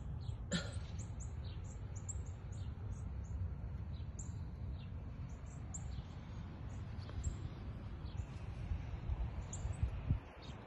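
Small birds chirping: a quick series of short, high chirps over a steady low rumble.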